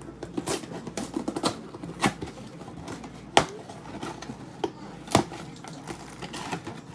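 Cardboard box being broken down by hand: an irregular run of crackles and knocks, the sharpest two about three and a half and five seconds in.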